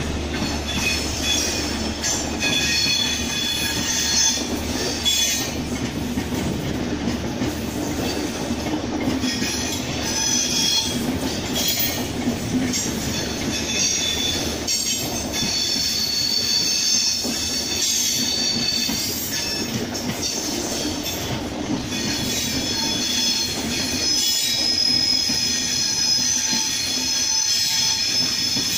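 Express passenger coaches rolling past at close range: a steady rumble and clatter of wheels over the track, with a high steady wheel squeal that grows stronger near the end.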